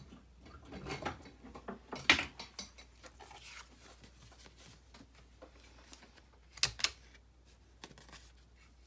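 Sharp clicks of a tool rounding off paper corners: one loud click about two seconds in and a quick double click near seven seconds, with light paper handling between.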